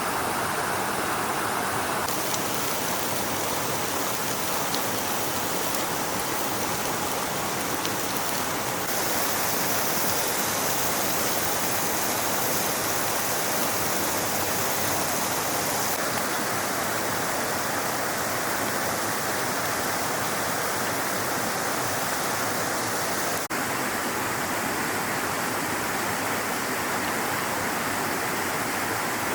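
A stream's flowing water, a continuous rushing hiss. Its tone shifts abruptly a few times, briefly dipping about two-thirds of the way through.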